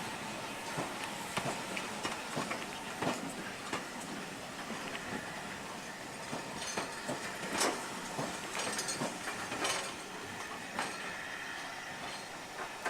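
A train passing, with a steady rolling rumble and irregular clicks and knocks from the wheels running over the track.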